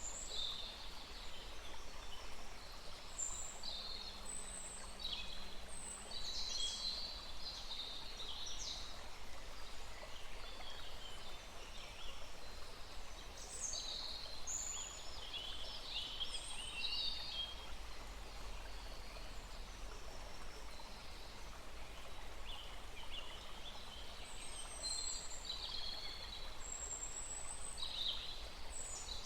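Several songbirds chirping and trilling in clusters over the steady rush of a small stream.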